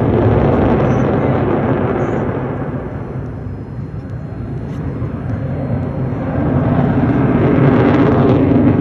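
Fighter jet engine roar. It swells, eases off around the middle, then builds again toward the end.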